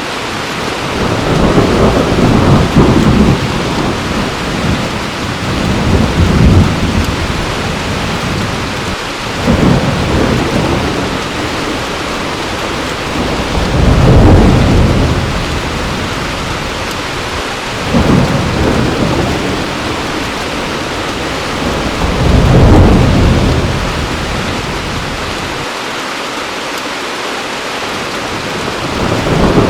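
Heavy rain pouring steadily, with rolls of thunder every few seconds, each low rumble swelling and fading over a second or two.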